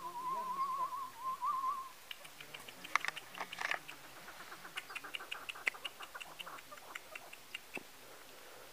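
A wavering, trilled whistle for about two seconds, then a run of short, quick bird chirps that thins out near the end.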